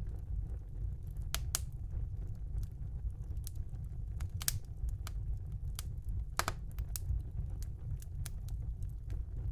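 Wood fire burning in a home fireplace: irregular sharp crackles and pops over a low steady rumble of the flames, with a louder pop about six seconds in.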